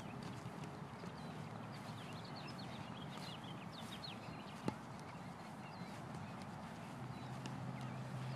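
Small birds chirping, with many short quick calls over a low steady rumble that grows a little louder near the end. One sharp click about four and a half seconds in.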